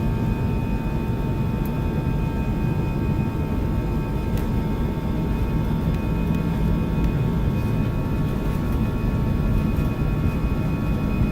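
Steady cabin noise inside an Airbus A320-216 airliner: a low engine and air hum with several steady whining tones over it, holding level with no build-up of thrust.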